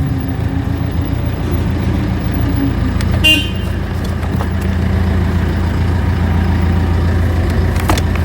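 Steady low hum of a motor vehicle engine running close by, with a short high beep about three seconds in and a few sharp clicks near the end.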